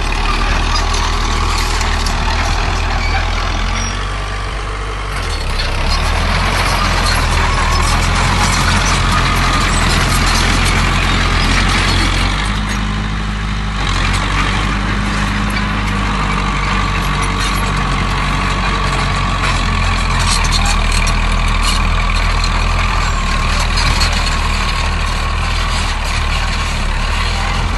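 Diesel engines of a small bulldozer and dump trucks running steadily at a land-filling site, with a constant low drone that eases off briefly twice.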